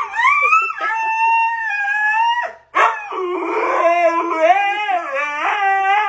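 A dog howling: one long howl that rises at the start and then holds, and after a brief break a second, longer howl whose pitch wavers up and down.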